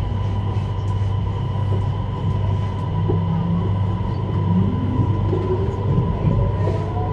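Cabin noise of a CRH1A-A electric multiple unit running on the line: a steady low rumble and hum with a constant higher tone, and from about four seconds in a whine that rises in pitch.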